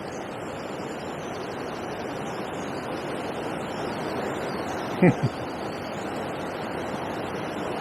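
Steady rushing of water pouring over a river weir. About five seconds in there is a brief grunt-like voice sound.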